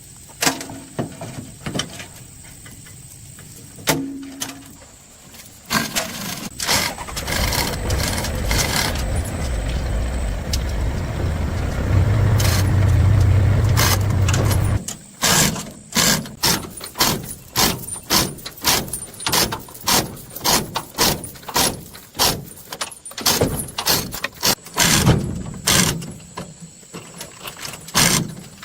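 Mechanical workshop sounds: a few scattered clicks, then a machine runs steadily for several seconds, deepest and loudest just before it stops, followed by a long run of sharp clicks and knocks, about one to two a second.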